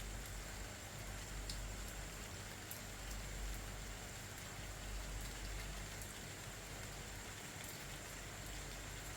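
Steady rainfall with a few sharp ticks of drops striking a hard surface. A thin, steady high tone sits under it.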